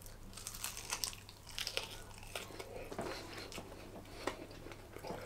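Faint biting and chewing of a barbecue-coated chicken thigh on the bone: many small, irregular crunching clicks and crackles of meat and skin being chewed.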